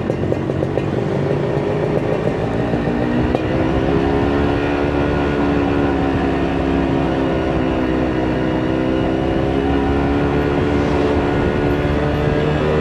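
Kawasaki Ninja RR 150's two-stroke single-cylinder engine running under way; the revs pick up about two seconds in and then hold steady at a cruising pitch.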